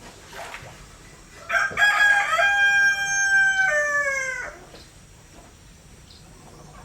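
A rooster crowing once: a single cock-a-doodle-doo about three seconds long, starting about a second and a half in, held level and then dropping in pitch at the end.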